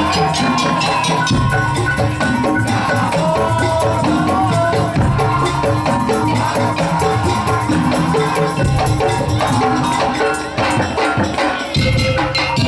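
Madurese musik daul (tong-tong) ensemble playing: a dense, fast rhythm of struck percussion with a held melody line over it.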